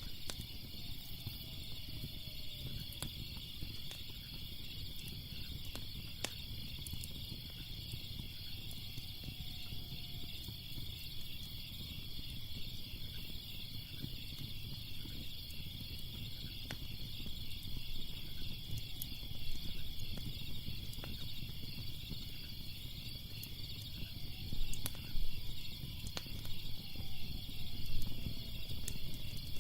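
Steady chorus of crickets chirping over the low noise of a wood fire, with scattered sharp crackles and pops that come a little louder and closer together near the end.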